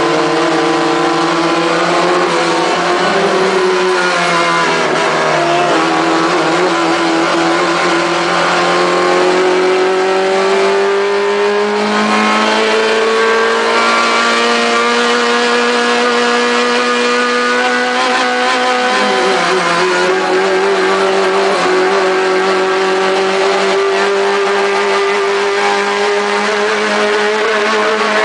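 Fiat 128 race car's four-cylinder engine heard from inside the cabin, running hard with its pitch climbing slowly as it revs. The revs drop clearly about nineteen seconds in, then start to climb again.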